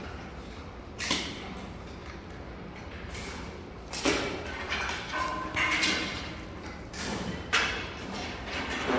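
A few sharp knocks and thuds, about one, four and seven and a half seconds in, with a brief squeak a little past five seconds.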